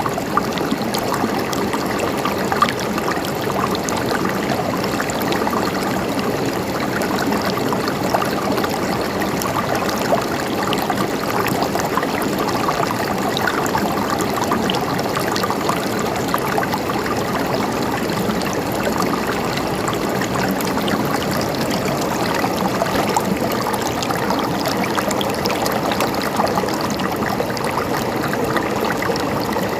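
A river running steadily, an even rush with fine splashing and gurgling of water.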